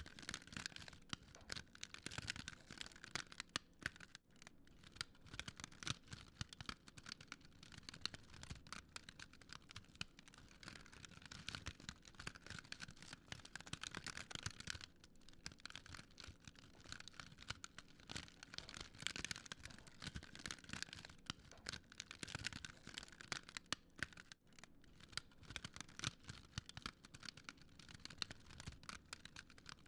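Wood fire crackling quietly: a dense, irregular run of small pops and snaps over a soft hiss.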